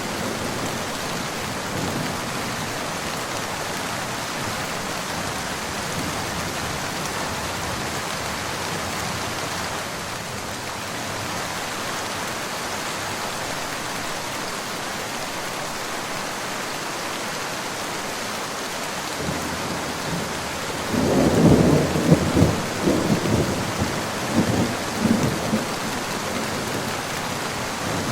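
Steady rain falling, with a rumble of thunder rolling in about three-quarters of the way through and lasting several seconds.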